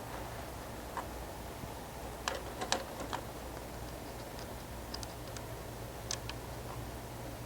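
Light, irregular clicks and taps of hand tools on metal as the carburetor linkage is worked loose on an 8N Ford tractor, with a steady low hum underneath.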